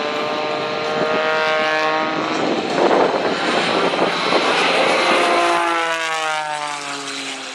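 A 400-horsepower aerobatic biplane's engine and propeller running at high power as it passes. In the last two seconds the pitch slides steadily down and the sound fades as the plane moves away.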